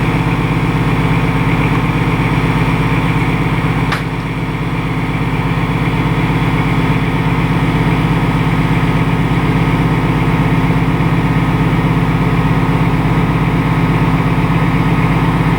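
Railway locomotive running steadily while standing: a steady low hum with a fine pulsing texture. A brief click comes about four seconds in.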